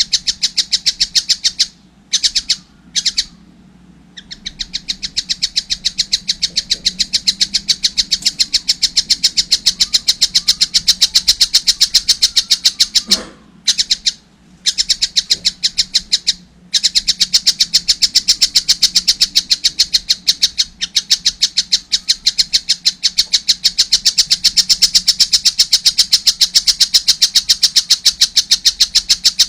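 Tengkek buto (collared kingfisher) chick calling nonstop in a fast, even run of short, high chirps, about four a second, broken by a few brief pauses.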